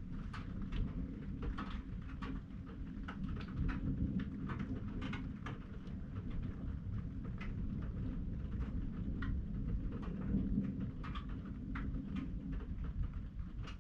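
Rain falling in a thunderstorm: irregular sharp drop ticks, several a second, over a steady low rumble.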